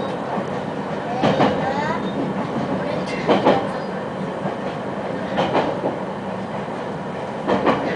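Hokuetsu Express HK100 electric railcar heard from inside the carriage, running at steady speed. The wheels clack over rail joints in double beats about every two seconds over a steady rumble and low hum.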